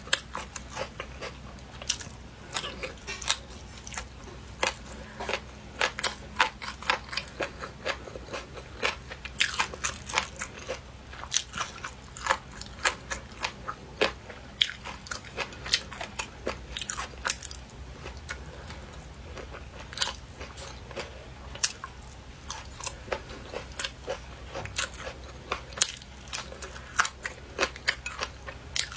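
A person chewing food close to the microphone, with many sharp crunches coming irregularly a few times a second.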